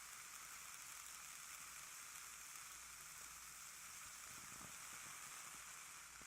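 Two ear candles burning at once, a faint steady hiss.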